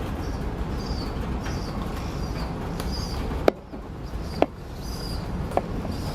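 A bird giving short high chirps again and again over a steady low rumble, with two sharp knocks in the middle.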